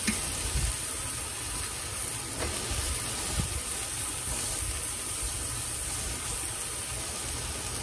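Salmon fillets and vegetables sizzling on a hot flat-top griddle: a steady hiss.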